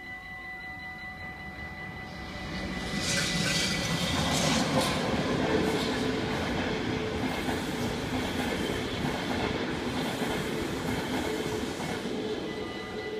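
Passenger train of intercity coaches passing over a level crossing. The rattle and rumble of its wheels on the rails rise about two seconds in, hold, and fade near the end. Under it the crossing's warning bells ring steadily.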